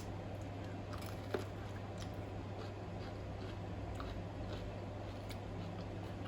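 Mouth sounds of someone chewing spicy instant noodles: scattered soft wet clicks and smacks, the sharpest about a second and a half in, over a steady low hum.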